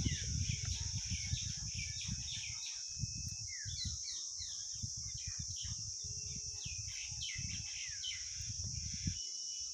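Small birds chirping over and over in quick, short, downward-sliding notes, over a steady high hiss and a low, uneven rumble.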